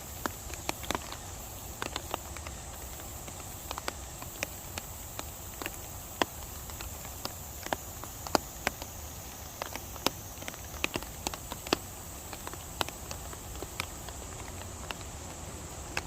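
Rain falling: a steady hiss with many irregular, sharp taps of raindrops landing close by.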